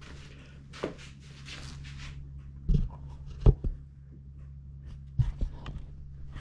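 Rustling, then several heavy knocks, from metal rip-fence parts being unpacked and set down, over a steady low hum.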